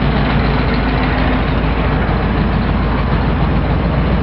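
Ford box van's 351 V8, which the owner calls the old Cleveland engine, idling steadily.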